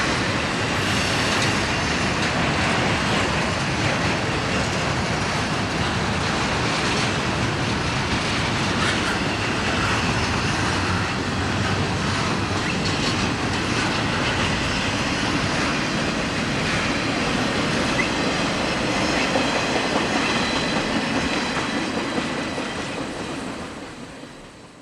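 Railroad cars rolling past with wheels clacking over the rail joints and a faint high wheel squeal, all running steadily until the sound fades out near the end.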